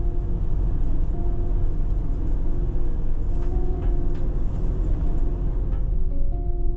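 Steady low rumble of a vehicle driving, with soft background music of held notes playing over it.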